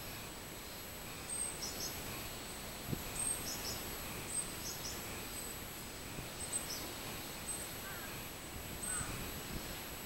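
Short high bird chirps, mostly in pairs, every second or so over a thin steady high whine, with two lower chirps near the end and a faint knock about three seconds in.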